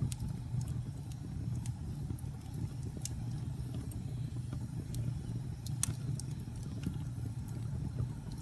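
Wood fire burning in a fireplace: a steady low rumble of flame with scattered sharp crackles and pops, one louder pop about six seconds in.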